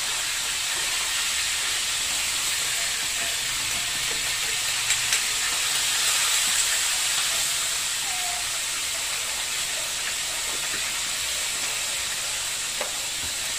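Pork spare ribs sizzling in sauce in a hot wok, a steady hiss, with a few light clicks of a metal spoon against the pan.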